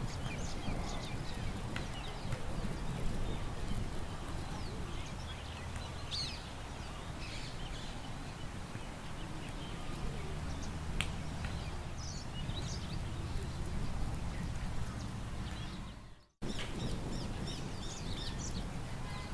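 Outdoor park ambience: scattered small birds chirping over a steady low rumble of wind. About sixteen seconds in, the sound cuts out for an instant.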